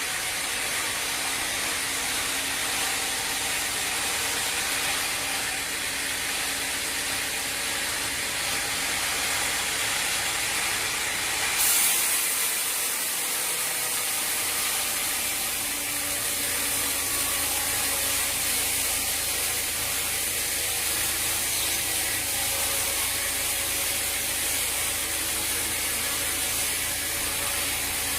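Sawmill machinery running steadily, a mechanical clatter under a constant hiss; about twelve seconds in the sound shifts and the hiss grows brighter.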